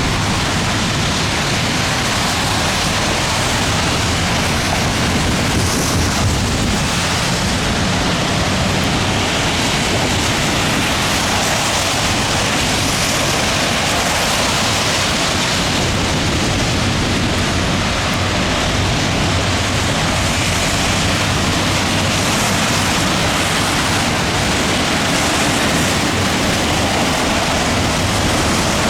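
Heavy thunderstorm rain falling with wind, a loud, steady rush of noise that barely changes.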